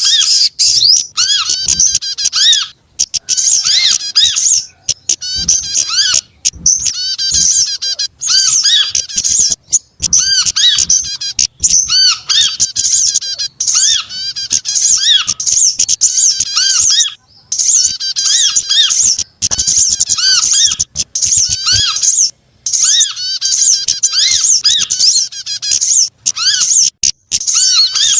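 Bird-lure recording of small songbirds, with calls of sunbirds (sogok ontong), prinias (prenjak) and other small birds layered into one loud, busy chorus. Rapid high-pitched chirps and trills overlap almost without pause. Beneath them a lower arched note repeats again and again, and the chorus breaks off briefly every few seconds.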